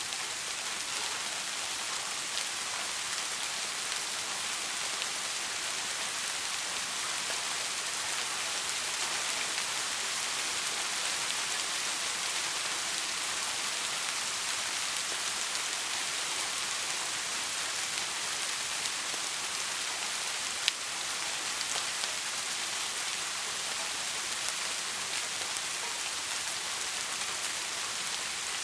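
Steady rain falling, an even hiss with scattered drop ticks and one sharper tick about two-thirds of the way through; no thunder.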